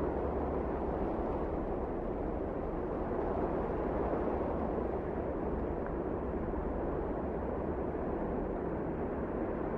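Wind blowing steadily: an even rushing noise with a deep rumble under it, with no single gust standing out.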